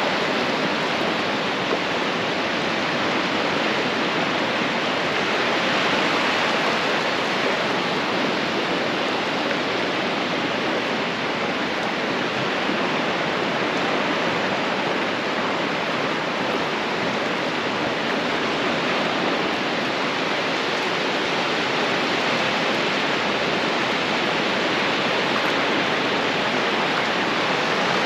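Ocean surf on a beach: a steady rush of breaking and washing waves, swelling a little about six seconds in and again near the end.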